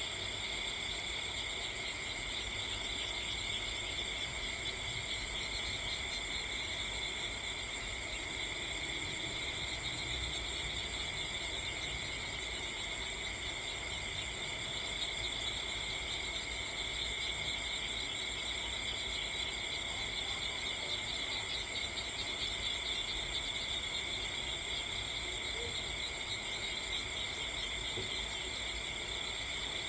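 A steady, unbroken chorus of insects chirring at several high pitches at once, like crickets.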